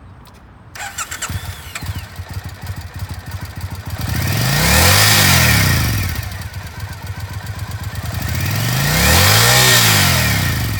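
Triumph America's 865cc air-cooled parallel-twin engine starting up about a second in and idling, then blipped twice, each rev rising and falling back to idle.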